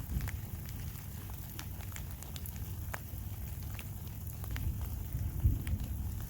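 Scattered raindrops ticking on a surface over a steady low rumble, with one louder low thump about five and a half seconds in.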